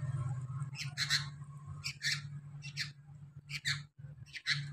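Young sooty-headed bulbul (kutilang) calling: five short, high chirps about once a second, over a steady low hum.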